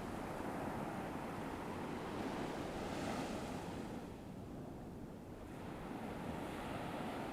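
Ocean surf sound effect: waves washing on a shore, one surge swelling about three seconds in, easing off, then building again near the end.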